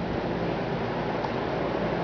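Ice cream truck's cold plate freezer refrigeration unit running, a steady hum with an even hiss.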